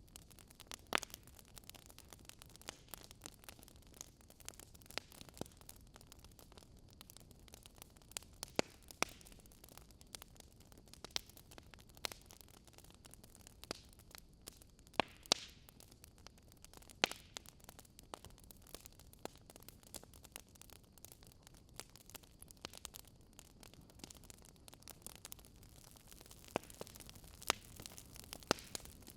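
Fire in a fireplace crackling: irregular sharp pops and snaps, a few louder than the rest, over a faint steady hiss.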